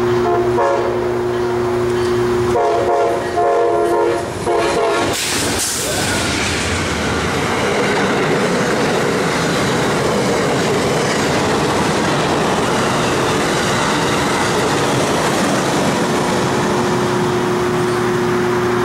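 Amtrak passenger train sounding its horn in blasts as it approaches. About five seconds in the locomotive passes with a loud rush, and then the cars run past at speed with a steady rushing and clickety-clack of wheels over the rails.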